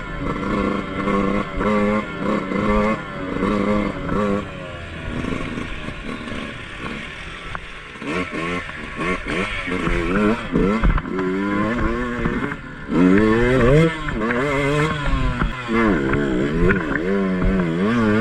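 Dirt bike engine revving up and down, with short quick throttle blips in the first few seconds and longer rising and falling revs from about eight seconds in.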